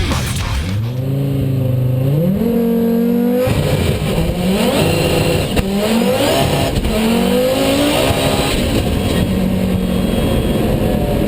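Heavily tuned Audi S2's turbocharged five-cylinder engine accelerating flat out in a launch-control run, its pitch rising through each gear and dropping sharply at three quick upshifts, then holding a steadier note near the end.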